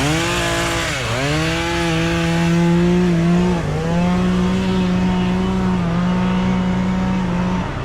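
A two-stroke chainsaw runs at high revs while cutting wood. Its pitch dips sharply about a second in, then briefly several more times, as the chain loads up in the cut.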